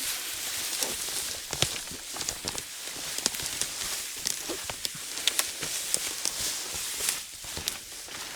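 Footsteps on the forest floor, with irregular snaps and crackles, over a steady high hiss.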